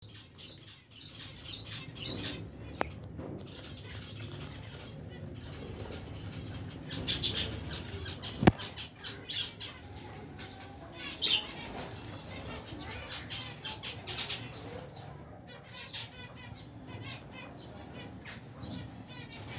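Small aviary birds chirping and flapping their wings, with many short high calls throughout. A single sharp knock about eight and a half seconds in is the loudest sound.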